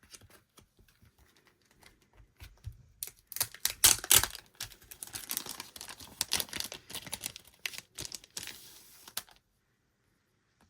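Packaging rustling and crinkling as it is handled and opened. First come sparse light clicks, then about three seconds in a dense crackle with a few sharp snaps, which stops abruptly about a second before the end.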